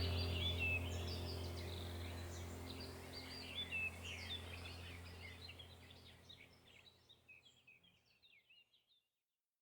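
Wild birds chirping and trilling in a chorus of short, quick calls over a low steady hum, all fading out to silence about two-thirds of the way through.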